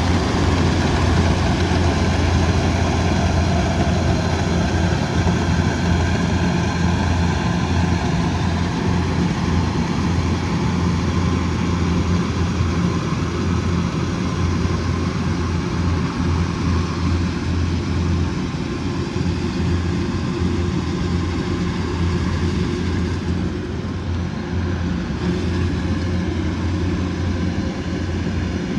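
Combine harvester's diesel engine running steadily with a deep hum, growing slightly fainter over the stretch.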